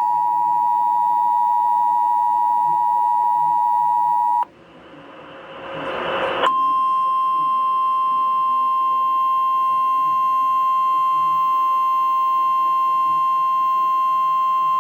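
Emergency Alert System attention signal on a radio broadcast: a steady two-tone alarm for about four seconds, then about two seconds of rising static hiss, then a single steady, slightly higher alert tone, the NOAA Weather Radio warning alarm, heralding a severe thunderstorm warning.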